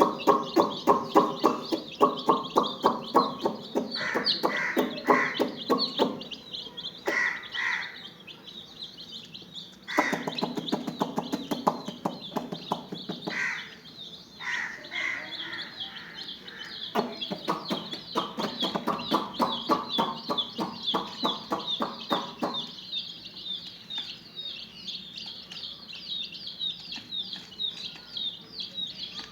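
A flock of chicks peeping constantly in high, rapid chirps. Several spells of fast, lower pulsing sounds a few seconds long come on and stop, about three times.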